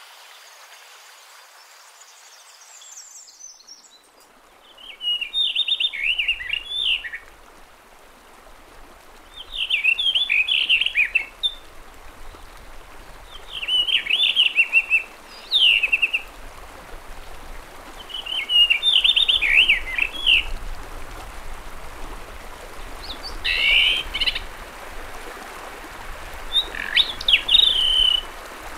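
A songbird singing six short phrases of quick, twittering notes, one about every four seconds, over a steady faint background hiss.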